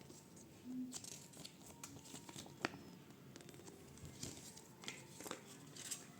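Quiet handling of the earbuds' packaging: soft crinkling and rustling with scattered small clicks, the sharpest click about two and a half seconds in.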